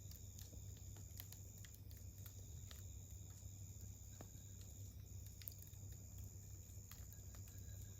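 Wood campfire crackling, with frequent small irregular snaps and pops. Behind it a steady high-pitched insect trill that breaks off briefly every few seconds.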